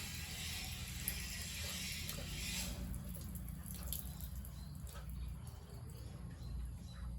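Running water hissing, which cuts off about three seconds in, over a steady low hum.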